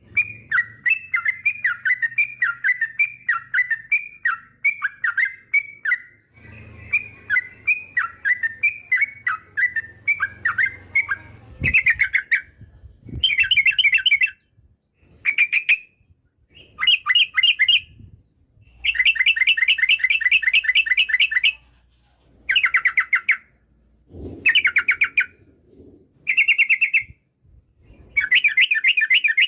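Yellow-vented bulbul (trucukan) singing: a quick string of repeated chirping notes for the first ten seconds or so, then a series of short, rapid trilled phrases broken by brief pauses.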